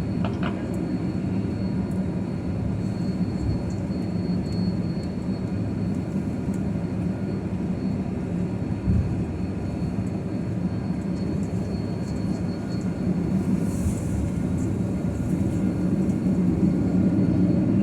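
Jet airliner cabin noise while taxiing after landing: a steady low rumble of the engines and cabin air, with a faint thin high whine over it. There is a single bump about halfway through, and the rumble grows louder near the end.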